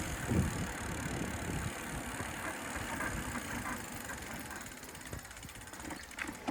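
Bicycle rear freewheel ticking rapidly as the rider coasts, over low wind and road rumble, with a sharp click near the end.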